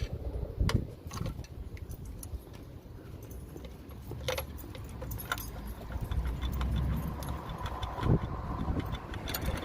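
Metal hand tools and parts clinking and rattling in an irregular series of light clicks, over a low hum.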